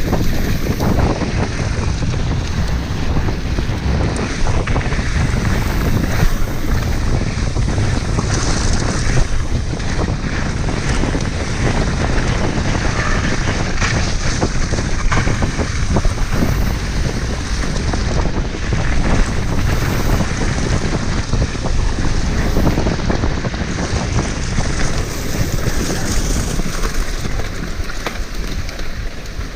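Wind rushing over the microphone of a mountain bike camera at riding speed, with frequent short knocks and rattles from the bike going over rough, muddy trail.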